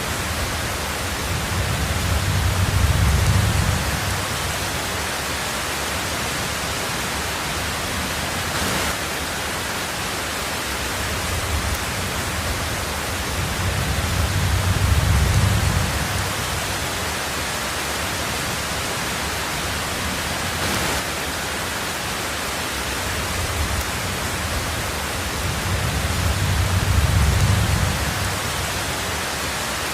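Heavy rain falling steadily on a tin roof, an even hiss. Low thunder rumbles swell and fade three times, about twelve seconds apart.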